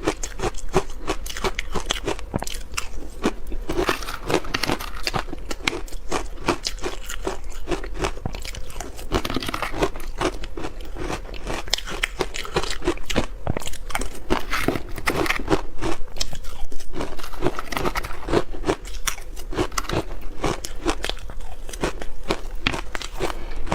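A person biting and chewing hard ice, a dense, unbroken run of loud crunches and cracks.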